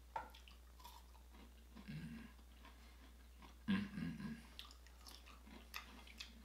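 A person chewing and biting into crisp-cooked asparagus close to the microphone, with soft crunches and small clicks, the loudest bite a little under four seconds in.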